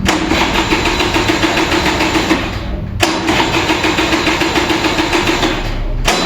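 Kinetic Honda two-stroke scooter's electric starter cranking the engine in two spells of about three seconds each, with a short break between, the engine not catching: a hard cold start.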